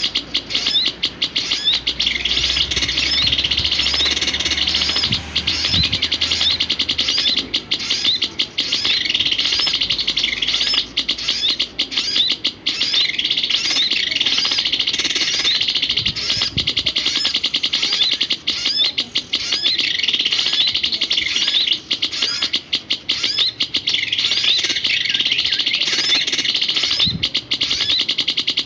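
Small songbird chirping in a fast, unbroken run of short high notes.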